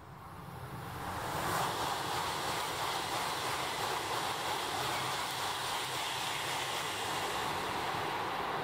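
Tohoku Shinkansen bullet train passing at high speed as it leaves a tunnel: a rushing sound of air and wheels on rail that swells over about the first second and then holds steady.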